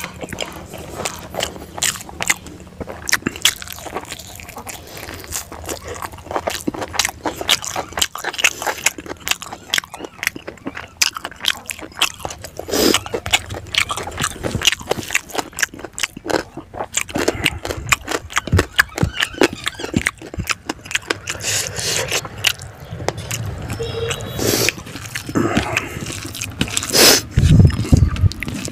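Close-up eating by hand: wet chewing and mouth smacking with crunches, a dense, irregular run of clicks as mouthfuls of rice with fried fish and pork are chewed.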